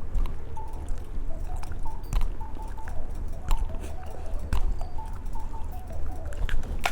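Close-up chewing of an eyeball-shaped candy, with scattered wet mouth clicks and smacks.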